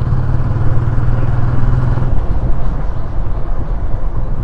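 Motorcycle running along the road, its engine note under heavy wind rumble on the microphone; the steady low engine note drops away about two seconds in.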